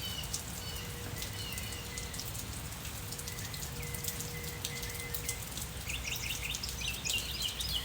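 Rain falling, with scattered drops ticking on surfaces, and a bird chirping in short repeated notes that become busier near the end.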